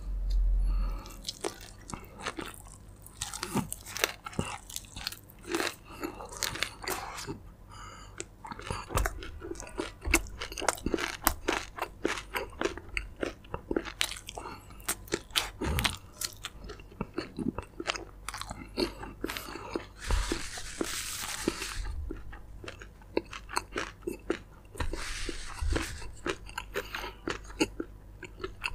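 Close-miked crunchy chewing and biting of fried chicken: irregular crisp crunches and mouth clicks.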